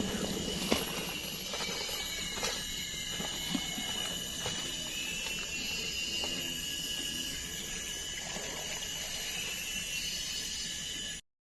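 Steady high-pitched insect chorus of a tropical forest, with a few faint clicks. It cuts off suddenly near the end.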